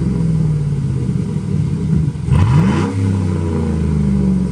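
GMC Sierra 1500 pickup's engine running with its muffler cut off (straight-piped exhaust). It is revved once, about two seconds in, and drops back toward idle.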